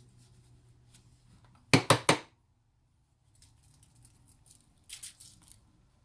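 Spice container shaken over a turkey: three sharp strokes in quick succession, then a softer cluster of shakes a few seconds later.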